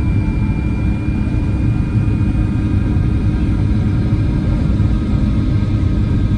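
Boeing 737-800 passenger cabin in flight: a steady, even rumble of engines and rushing airflow, with a few faint steady high tones over it.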